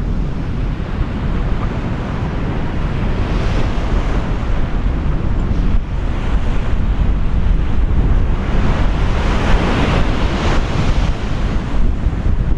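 Wind buffeting the microphone over the wash of ocean surf, with a steady low rumble; the surf's hiss swells about two-thirds of the way through, then eases.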